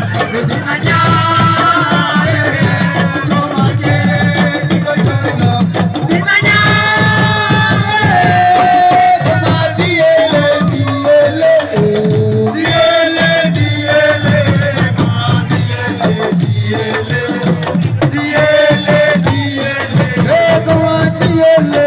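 Live Senegalese assiko music: a singer's voice over dense, fast drumming.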